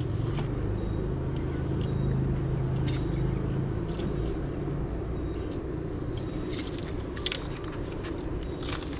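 Low engine hum over a steady rumble, fading out about halfway through, with scattered light clicks in the second half.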